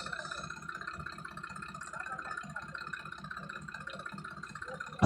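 Sonalika DI 750 tractor's diesel engine running steadily at low speed with an even, regular beat.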